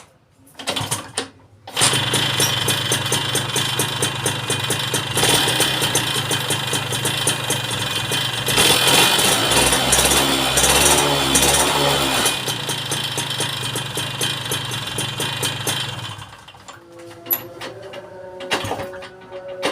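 Two-stroke motorcycle engine starting about two seconds in, then running and being revved, loudest in the middle, before it drops back to a lower level near the end.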